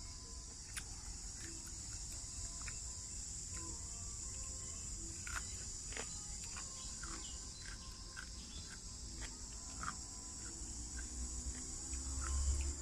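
Crickets trilling in a steady, continuous high drone, with scattered short chirps and clicks over it.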